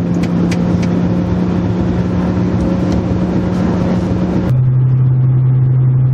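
Car engine and road noise heard from inside a moving car, a steady engine drone at constant speed; about four and a half seconds in it abruptly drops to a lower, duller drone. The driver reports the engine is still misfiring on the third cylinder.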